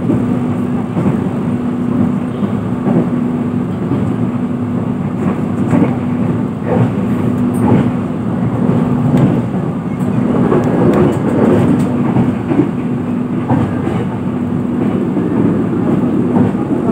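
Running noise inside a passenger train coach at speed: a steady rumble of the wheels on the track with a steady hum, and scattered clicks as the wheels pass over the rails.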